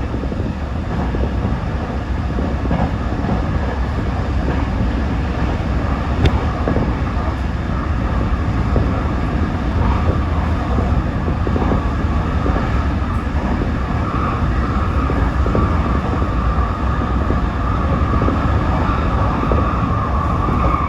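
Toyo Rapid Railway 2000 series electric train running at speed between stations, a steady rumble of wheels on rail. A steady whine grows louder about two-thirds of the way through, and there is a single sharp click about six seconds in.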